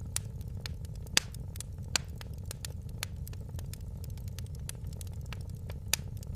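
Wood fire crackling in a fireplace: a steady low rumble of burning with frequent small crackles and a few sharper pops, the loudest about a second in, at two seconds and near the end.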